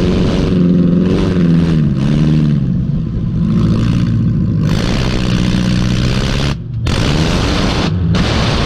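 Junk race car's engine revving hard, its pitch rising and falling repeatedly with the throttle, with a brief drop-out about two-thirds of the way through.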